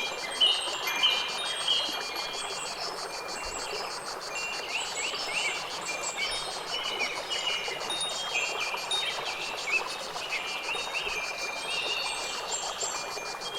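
Nature ambience of many birds chirping and trilling, with short bell-like ringing notes, over a steady hiss. The ringing notes are densest in the first second, and sweeping chirps cluster about five seconds in.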